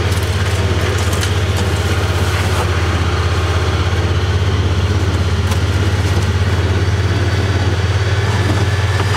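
Small off-road utility vehicle's engine running at a low, steady drone while being driven along. It has just had its first scheduled service with the valves checked, and the owner says it runs pretty nice.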